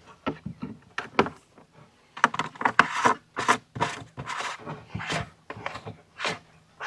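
Repeated short scraping strokes, about one to two a second, from hand work fastening a part onto a plastic bucket chicken feeder.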